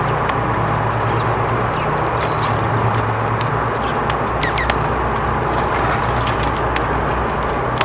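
Outdoor wildlife ambience: a few short, high bird chirps and many sharp ticks over a steady low hum and hiss.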